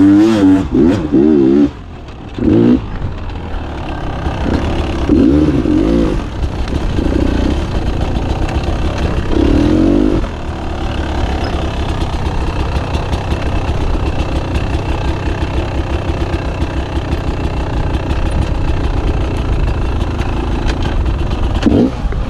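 Beta 300 two-stroke dirt bike engine being ridden, revving up and down in several surges over the first ten seconds, then running more steadily with a low rumble.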